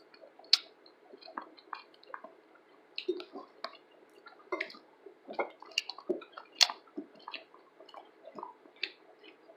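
Close-up eating sounds of a person chewing chicken wings: wet smacking and short, sharp mouth clicks at irregular intervals.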